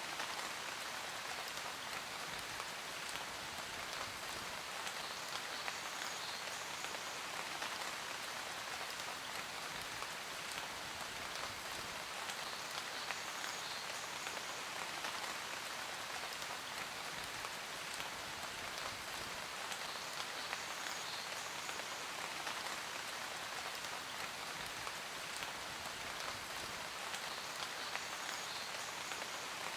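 Steady rain falling, a continuous hiss with many small drop impacts throughout.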